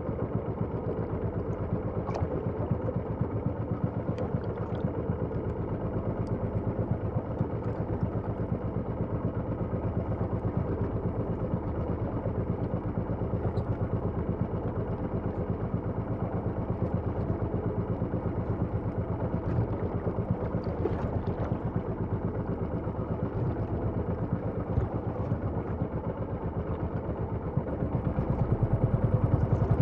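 A small engine running steadily at a constant speed, getting a little louder near the end.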